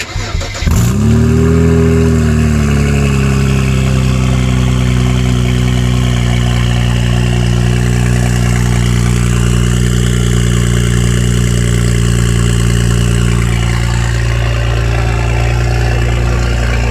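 Car engine starting about a second in through a freshly fabricated large-bore exhaust (3-inch downpipes merged into 4-inch pipe with a resonator). Its revs flare up and settle back, then it idles steadily and loud.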